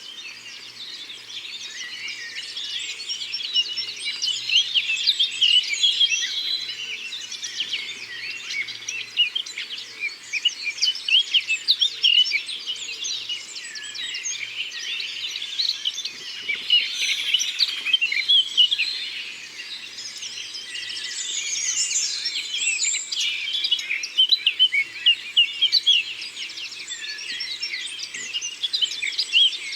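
A dense chorus of many small birds chirping and singing at once, with rapid overlapping high calls that never stop.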